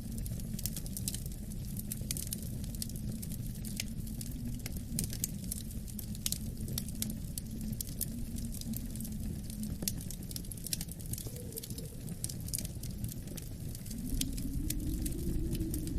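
Wood fire crackling with frequent small pops, over a low howling winter wind that swells and rises in pitch near the end.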